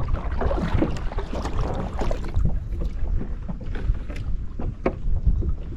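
Wind buffeting the microphone over a kayak on open water, a steady low rumble with light water sounds and a few small knocks, the clearest two near the end.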